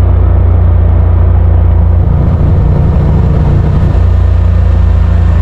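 Side-by-side UTV's engine and drivetrain running under way, a loud, steady low drone whose note changes between about two and four seconds in.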